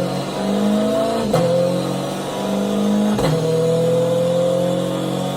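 Heavily modified Corvette C8 V8 pulling hard on a chassis dyno, its pitch climbing steadily. It is broken twice by short sharp cracks where the pitch drops slightly before climbing again, as it shifts up a gear.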